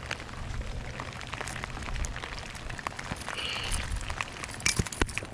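Rain pattering close by: a steady hiss with many small sharp ticks of drops, over a low rumble of wind on the microphone.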